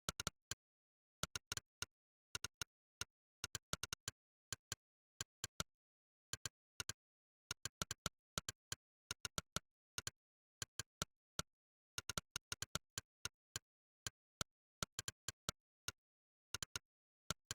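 Monkeytype's "click" keypress sound effect: one short, sharp click for each keystroke, coming at an irregular typing pace in quick runs separated by brief pauses, with dead silence between clicks.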